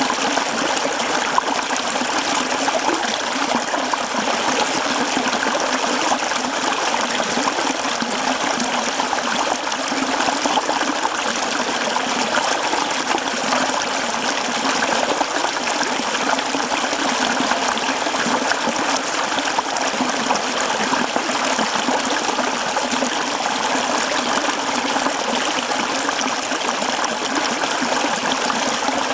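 A mountain stream running over rocks, a steady mix of rushing and trickling water.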